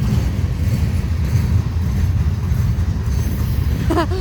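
Freight train cars rolling past close by: a steady, loud low rumble.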